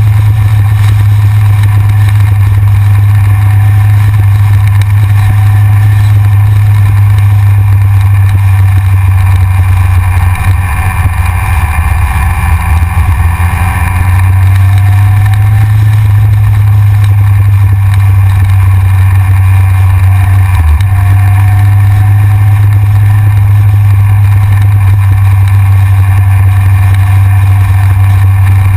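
Heavy wind rumble on a front-mounted action camera's microphone while a Yamaha XJR motorcycle is ridden, with its inline-four engine running underneath. The engine pitch shifts up and down for a few seconds around the middle, and there is a brief thump about two-thirds of the way through.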